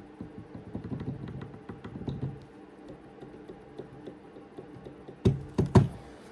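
Upper universal joint of a 2018 Nissan Rogue's steering intermediate shaft being rocked up and down by hand. Play in the joint gives a quick run of light, irregular knocks, the knock the mechanic traced to this joint. Three louder, sharper knocks come near the end.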